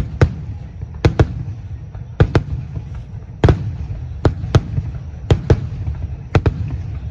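Aerial firework shells bursting in quick succession during a finale barrage: sharp bangs, often in pairs a fraction of a second apart, over a continuous low rumble.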